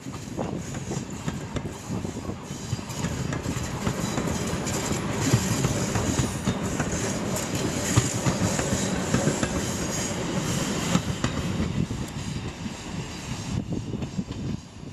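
Electric multiple-unit commuter train running past close by: a steady rumble with wheels clattering over the rail joints. The noise drops off near the end.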